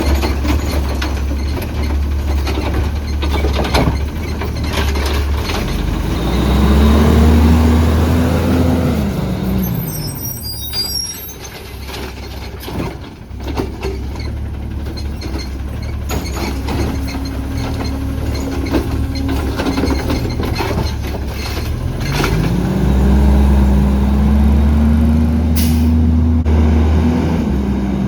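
CNG Autocar ACX garbage truck's engine running, revving up, holding and dropping back twice, amid clanks and rattles, with a short air hiss about ten seconds in.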